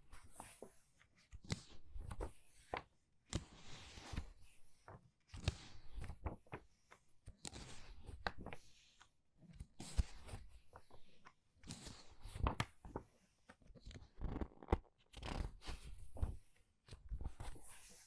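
Book pages being turned quickly by hand: papery swishes and flutters with soft taps and rustles, a new turn every second or two.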